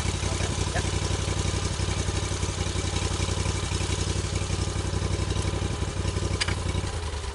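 Sawmill engine running at a steady idle with an even low pulse, shut off near the end and dying away.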